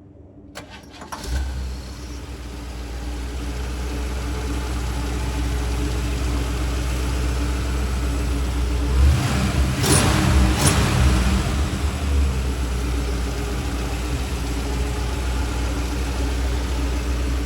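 1957 Chevrolet Bel Air's engine starting about a second in, then idling steadily, with two short revs about ten seconds in.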